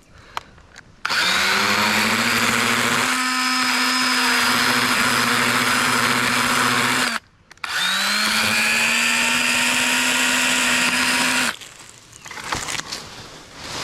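Echo electric pruning saw, a battery chainsaw, running in two bursts while cutting a limb. Each burst starts with a rising whine as the motor spins up and then holds steady, the first for about six seconds and the second for about four, with a brief stop between them.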